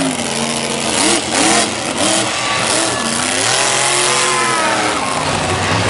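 Race vehicle engines revving loudly, their pitch rising and falling several times.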